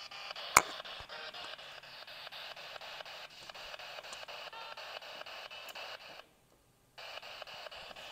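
Radio static chopped into rapid, even pulses, like a receiver sweeping through stations, with a sharp click about half a second in. The hiss cuts out for under a second near the end, then resumes.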